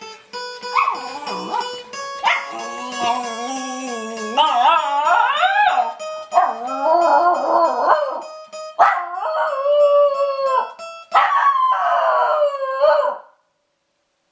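A dog howling along to an acoustic guitar being plucked, in a series of long, wavering howls that rise and fall in pitch over the steady guitar notes. Both stop about a second before the end.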